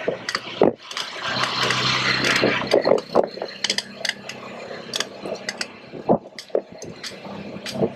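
Street sounds with irregular knocks and clatter. A motor vehicle's engine runs past between about one and three seconds in.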